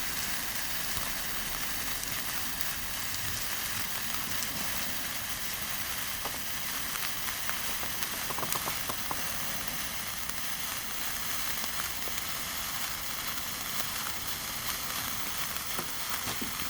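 210 mm hand-held sparkler burning, hissing steadily with a few faint crackles.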